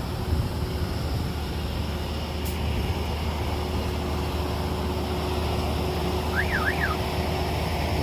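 Heavy diesel earthmoving machinery engine running steadily at a constant pitch, with a short high two-note chirp about six and a half seconds in.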